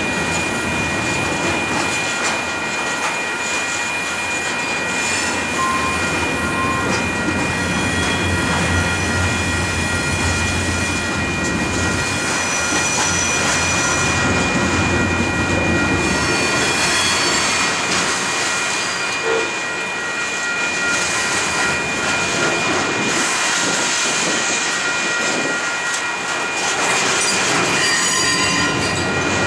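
Freight cars rolling past on steel rails, with a steady rumble of wheels and several steady high squealing tones held over it.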